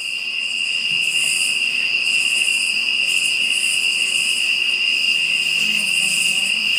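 Night insects, crickets, chirping in a steady, high-pitched chorus, with a softer pulsing trill higher up.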